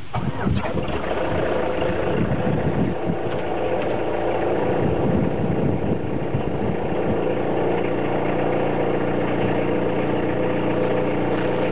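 Peugeot 406 1.9-litre turbodiesel engine just after starting, at about 14 °C: it runs unevenly for several seconds. About eight seconds in it settles into a steady diesel idle.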